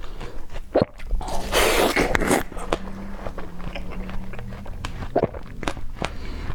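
A person biting and crunching ice, with a dense crunching stretch about a second in and a few single sharp cracks.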